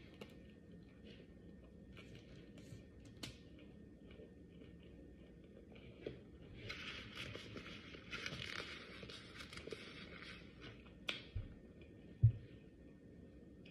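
Close-miked eating: quiet chewing with small clicks of a utensil against a takeout container. In the middle comes a few seconds of dry crackling noise, and near the end a single low thump.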